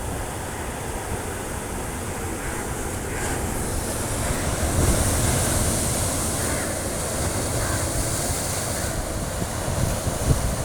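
Sea waves washing onto a rocky beach, the surf hiss swelling about halfway through and easing off near the end, with wind rumbling on the microphone.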